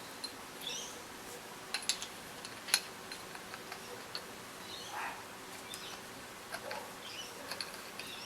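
A fork top cap is pushed down against the fork spring and worked onto the thread of the fork tube, with a few sharp metal clicks and short squeaks.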